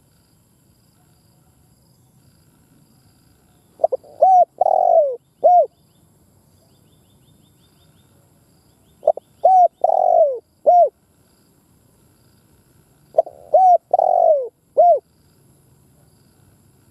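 Spotted dove cooing: three phrases about four to five seconds apart, each a few short coos around one longer, drawn-out coo.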